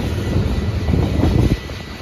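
Freight cars rolling past on the rails: a heavy low rumble with wheel clatter that drops off sharply about one and a half seconds in, leaving a lighter rumble.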